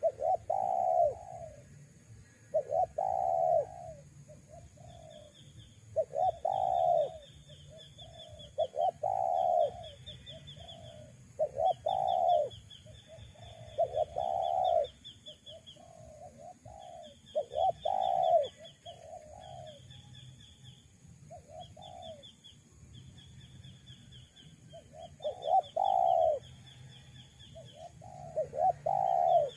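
Spotted doves cooing: a series of rounded coo notes, repeated every second or two, with short pauses. Between them run fainter, high, rapid chirping trills.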